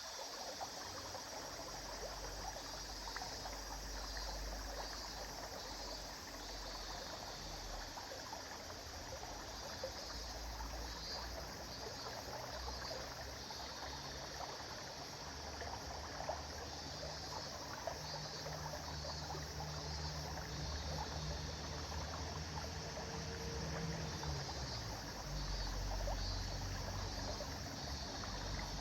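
River water flowing steadily over stones, a continuous babbling trickle, with a low rumble coming and going underneath that is loudest near the end.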